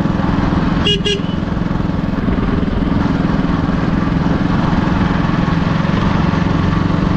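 Motorcycle engine running steadily under way. About a second in, a vehicle horn gives two short beeps.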